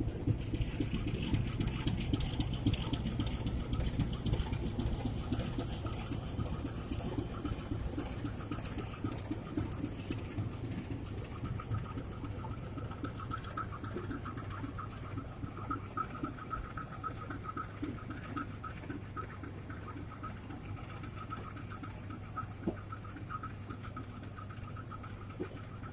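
Departing diesel-hauled passenger train: a steady diesel drone under a fast, even patter of wheels running over the track, slowly growing fainter. About halfway in, a thin high whine joins it.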